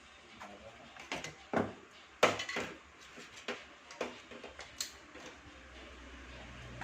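Metal tools and parts clinking and knocking, about a dozen separate clacks with the loudest a little over two seconds in. A low steady hum comes up near the end.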